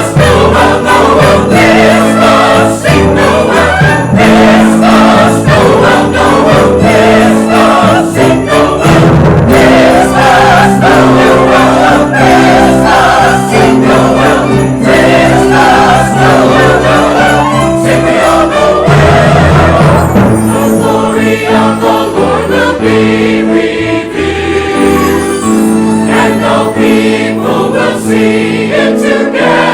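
Church choir singing a Christmas piece with orchestra accompaniment, played loud and continuous.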